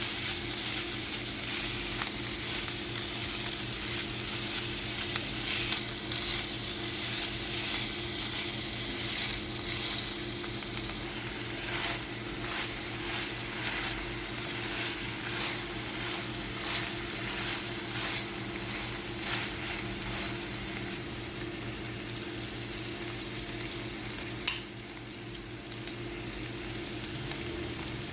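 Food frying in oil in a pan, sizzling steadily, while a spatula stirs and scrapes it in short strokes, over a steady low hum. About three-quarters of the way through there is one sharp knock.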